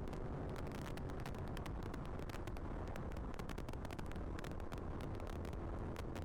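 Royal Enfield GT 650 motorcycle being ridden: a steady rumble of engine and wind on the rider's microphone, with frequent short crackles.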